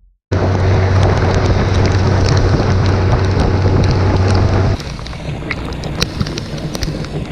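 A boat's motor runs steadily with wind rushing over the microphone. About four and a half seconds in it cuts to a quieter steady hiss with scattered sharp taps.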